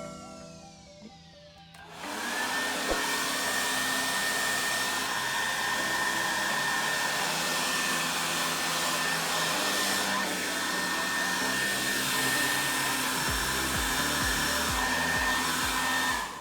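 Hair dryer switched on about two seconds in, running steadily with a rush of air and a thin high motor whine, then cut off just before the end.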